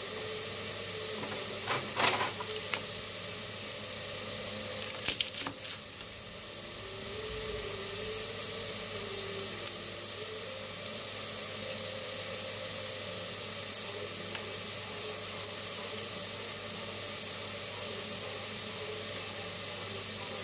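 Chicken sizzling steadily as it fries in a pan. A few short clicks and knocks come about two seconds in and again around five seconds in, as garlic is handled with a knife on a wooden chopping board.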